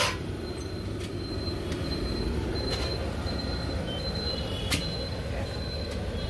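Steady low rumble of a passing train, with a thin high wheel squeal that comes and goes and a few light clicks.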